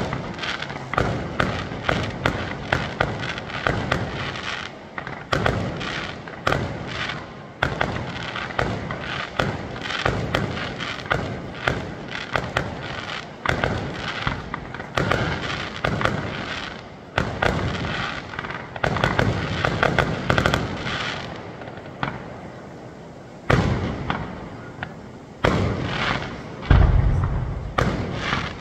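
Fireworks display: a fast, dense run of bangs going off one after another, thinning after about twenty seconds into a few separate, louder, deeper booms near the end.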